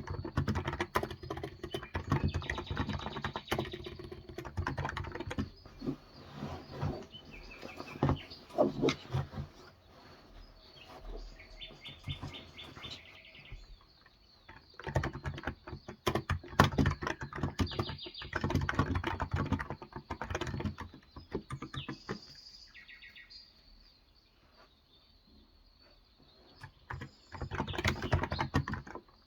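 Typing in bursts on a Cox Endeavor electro-capacitive (Topre-style) 35 g tenkeyless keyboard, with a lull in the keystrokes near the end before a final burst. Birds chirp now and then in the background.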